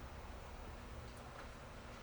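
Quiet room tone with a steady low hum and a couple of faint ticks about a second in.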